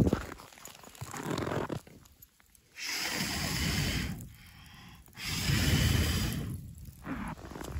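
Two long, forceful blasts of breath close to the microphone, each lasting about a second and a half.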